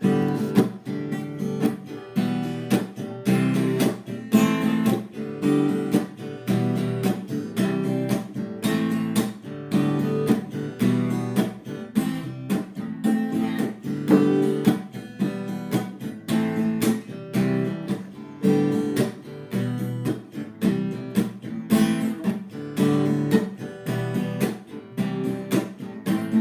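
Instrumental break of a rock song: strummed acoustic guitar chords over a steady drum-machine beat.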